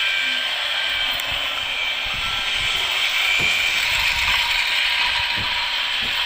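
Motorised toy train running along its track: a steady mechanical whir and clatter from its gears, with a couple of low knocks.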